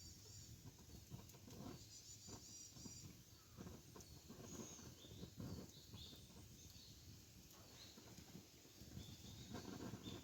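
Faint crackling of a wood campfire, with small birds chirping now and then in the background.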